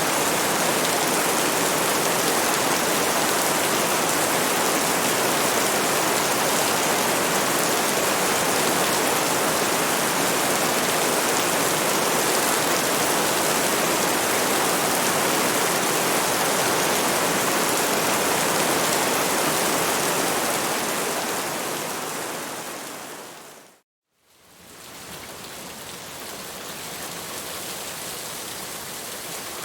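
Steady, dense rain. About twenty seconds in it fades down to a moment of silence, then rain fades back in quieter and duller.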